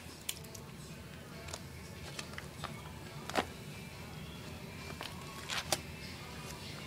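Scattered faint clicks and soft handling noises, as soggy paper and debris are moved about by hand, over a low steady hum.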